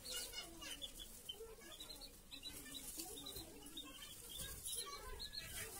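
Birds chirping busily, many short high chirps a second, with a few lower calls among them.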